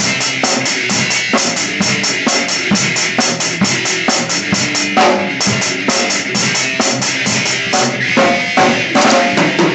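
Drum kit playing a steady rock beat: quick, even hi-hat strokes over bass drum and snare, with a run of heavier hits near the end.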